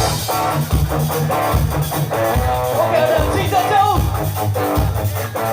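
Ska band playing an upbeat number, with guitar chords on a steady rhythm over bass and drum kit.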